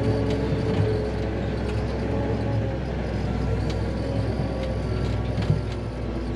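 Challenger 675D tractor's diesel engine running steadily, a constant low rumble with a faint steady hum and a few light clicks.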